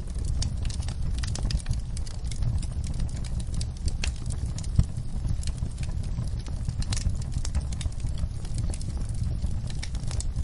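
Wood fire in a fireplace crackling: irregular sharp pops and snaps over a steady low rumble, with one louder pop about five seconds in.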